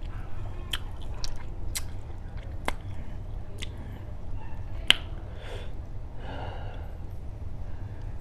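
Close-miked chewing of jumbo shrimp in sauce, with wet mouth clicks and smacks at irregular intervals, the sharpest about five seconds in, over a steady low hum.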